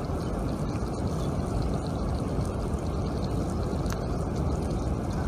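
River water rushing steadily, an even noise without a break.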